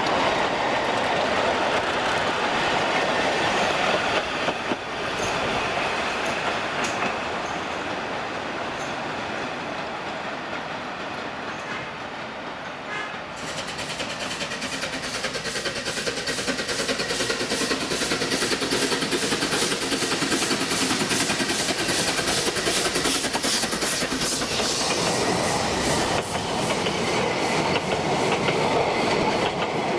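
Narrow-gauge train running along the line, wheels clattering over the rail joints. The sound fades somewhat for several seconds, then about thirteen seconds in a fast, even clatter sets in and carries on.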